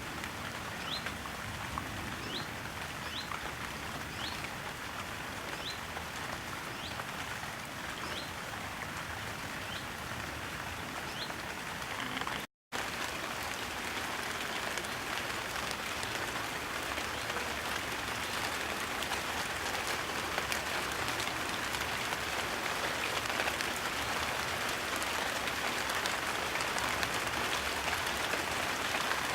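Steady rain falling, a little louder after a brief cut about halfway through. In the first half a faint, short, rising chirp repeats about once a second.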